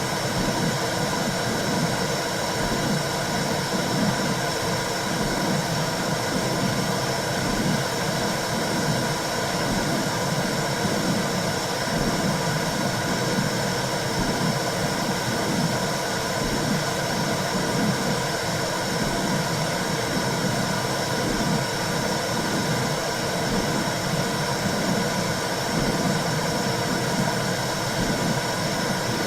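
Womb-sound white noise for soothing a baby: a steady, low whooshing rumble with faint steady tones above it, unchanging throughout.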